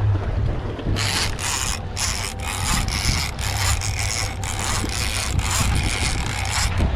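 Fishing reel being wound, a rasping ratchet-like sound in strokes about twice a second that starts about a second in and stops suddenly near the end, over a steady low hum of the boat's engine.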